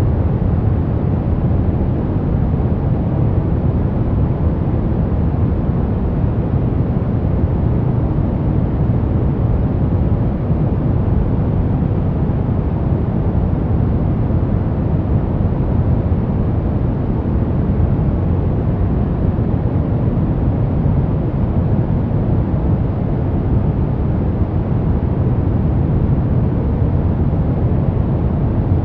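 Steady sleep white noise, a deep, even rush weighted toward low pitches, with no change or break.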